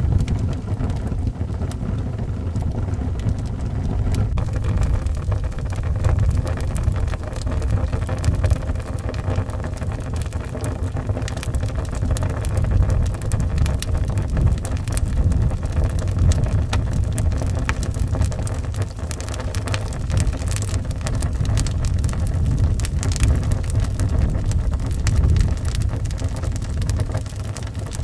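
Wood fire crackling in a fireplace, many small sharp pops scattered through, over a steady low rumble of wind.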